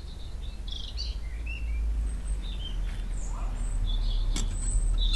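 Birds chirping in short, scattered calls over a low steady rumble, with one sharp click about four seconds in.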